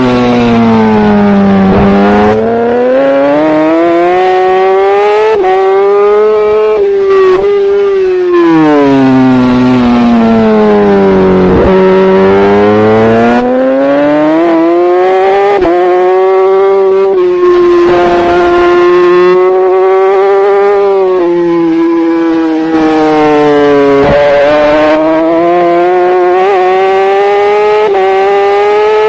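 Superbike engine heard from onboard at racing speed: the revs drop steeply twice under braking and downshifts, about two seconds in and again around twelve seconds, then climb back through upshifts, with brief breaks in the note at each gear change and a stretch held steady at high revs in the second half.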